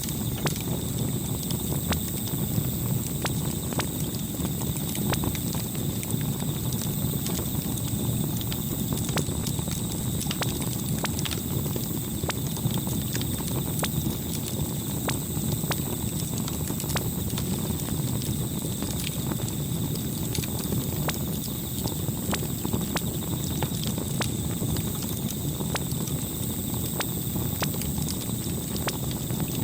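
Campfire crackling: frequent irregular pops and snaps over a steady low rumble of burning wood.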